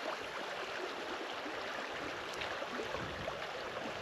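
River water flowing steadily, a continuous rushing babble of current.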